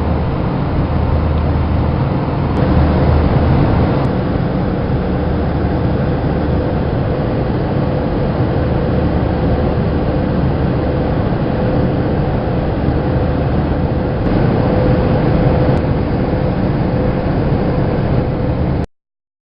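Airbus A320 cabin noise during the climb-out: a steady drone of jet engines and airflow, with a steady mid-pitched tone running through it. It cuts off abruptly near the end.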